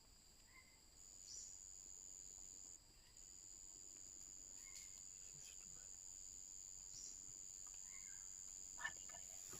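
Faint, steady high-pitched insect chorus that drops out briefly twice, with a few soft, short chirps and a small click near the end.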